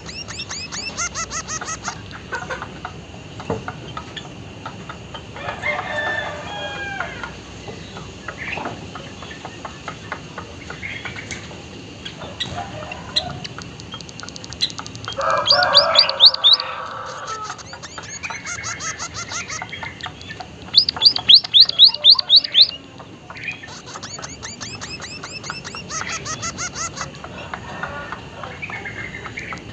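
White-headed munia singing: fast series of thin, high rising notes, loudest about 21 seconds in, mixed with lower, harsher bursts of calling.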